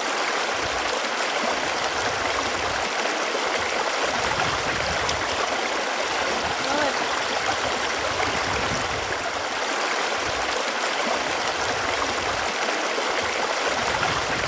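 Running water flowing steadily, a continuous rushing with small gurgles, like a stream.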